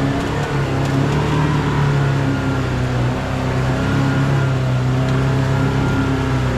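Polaris RZR Pro R side-by-side's four-cylinder engine running steadily under way on a trail, its pitch wavering only a little.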